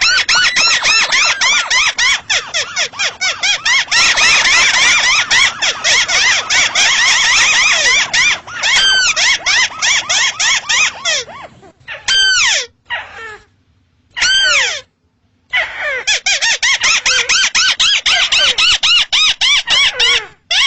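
Paddy-field crake (burung tikusan sawah) calling: a fast, continuous series of harsh, ringing notes several per second, some sliding down in pitch. Twice, about halfway through, the run breaks off into short separate calls before the rapid series resumes.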